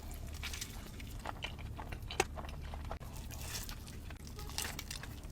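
Soft eating sounds: biting into and chewing a steak and chicken quesadilla, with small crunches and crackles and one sharper click about two seconds in, over a steady low hum.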